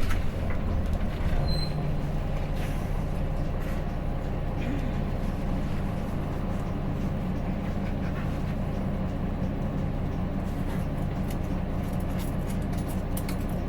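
Hino Blue Ribbon City city bus's diesel engine running steadily, heard from inside the cabin while the bus travels, with a few light rattles or clicks near the end.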